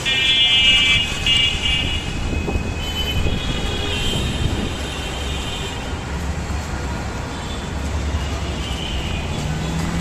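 Dhaka metro rail train with a steady low rumble, and a high, whining tone near the start and again about three to five seconds in.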